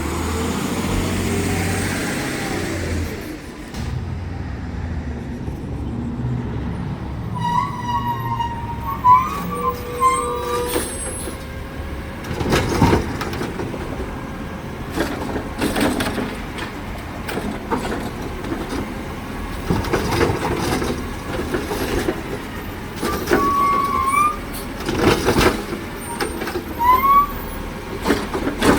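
Side-loader garbage truck at work: a diesel engine runs throughout, with an air-brake hiss near the start. Short squeals and repeated knocks and clunks follow.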